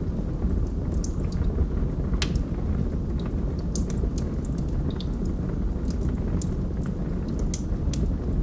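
Wood logs burning in a fireplace: a steady low rumble of the flames with frequent sharp crackles and pops at irregular intervals, a louder pop about two seconds in.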